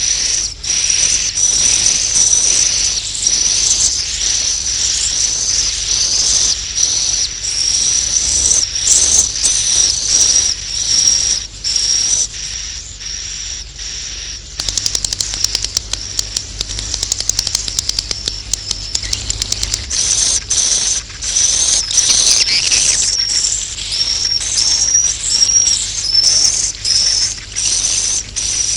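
Swiftlets twittering in a dense, continuous chorus of high chirps. This is a roosting-call (inap) recording of the kind played to lure swiftlets into a nest house. It thins out for a couple of seconds about halfway through.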